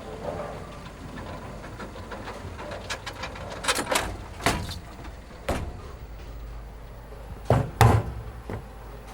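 Irregular sharp knocks or bangs, about seven in all, in two clusters in the middle and near the end, the loudest pair close together near the end, over a steady low hum.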